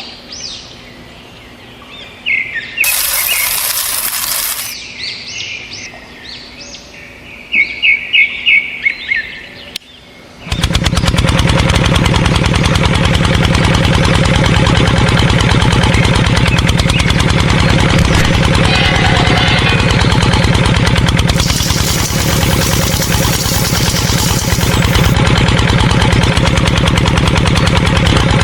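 Birds chirping, with a quick run of chirps and a short hiss, then about ten seconds in a small motor starts abruptly and runs steadily with a fast, even pulse.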